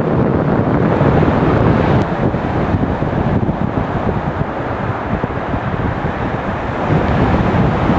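Strong wind blowing over the microphone, a loud, rough, unbroken rush.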